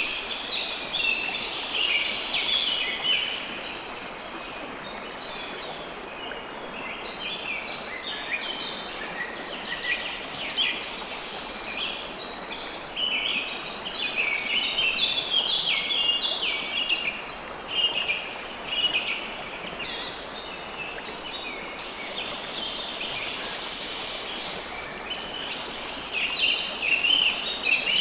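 Many birds chirping in dense, overlapping calls over the steady rush of flowing river water.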